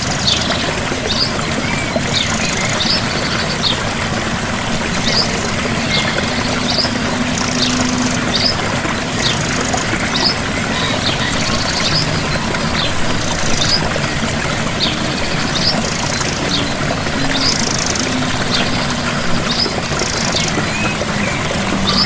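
Gentle waterfall, a steady rush of falling water, with a small bird chirping over it in short high notes about once a second and a buzzier high call every couple of seconds.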